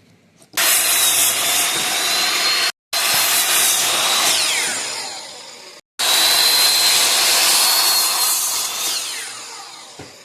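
Electric power saw cutting through lumber, heard in three spliced stretches. Each stretch is a loud steady whine over the noise of the cut, and the later stretches end with the motor's whine falling as it winds down.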